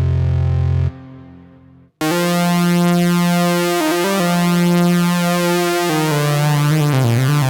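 2022 reissue Minimoog Model D analog synthesizer playing solo. A low held note cuts off about a second in and fades away, then after a moment of silence a new sustained note starts at two seconds, followed near the end by a run of quickly changing notes.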